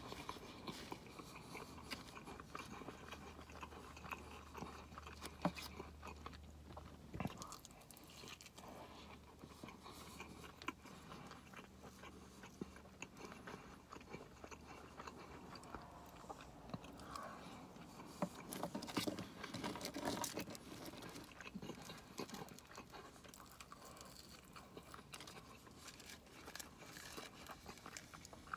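Faint, close-up eating sounds: biting and chewing a crispy fried buffalo chicken sandwich, with small crunches, mouth clicks and smacks.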